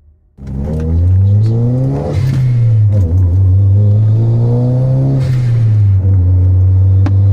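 Toyota Celica GT-Four's turbocharged 2.0-litre 3S-GTE inline-four accelerating through the gears, heard from inside the cabin: engine pitch climbs, then a hiss from the blow-off valve and a drop in revs at each of two gear changes, about two seconds and five seconds in, before settling into a steady drone.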